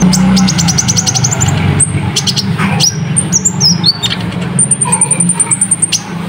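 Kolibri ninja (konin), a sunbird, singing a fast, dense song of high, thin chirps: rapid trills and short falling notes, with a long high trill near the end. A steady low hum runs underneath.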